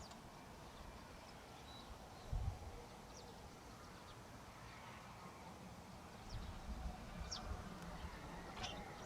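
Faint outdoor ambience with a few short, scattered bird chirps and occasional low rumbles.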